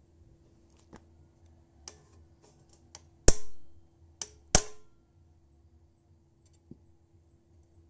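Metal-on-metal hammer strikes while knocking out a motorcycle exhaust rivet: a few light taps, then two loud blows about a second and a quarter apart, each ringing briefly.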